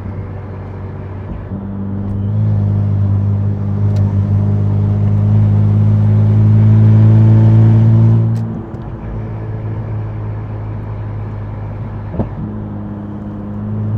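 Infiniti Q60's twin-turbo V6, E85-tuned with exhaust dumps, running at a steady engine speed and growing louder for several seconds, then dropping back sharply about eight seconds in and carrying on at a steady, quieter drone.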